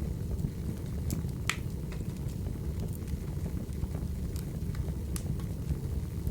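Burning firewood crackling: a steady low rumble of the fire with scattered sharp pops and snaps, the loudest about one and a half seconds in.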